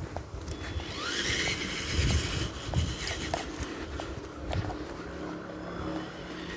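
Tamiya TXT-2 RC monster truck driving through brush. Its electric motor whines upward as it accelerates about a second in, over crackling and snapping of sticks and twigs under the tyres and scattered low thumps.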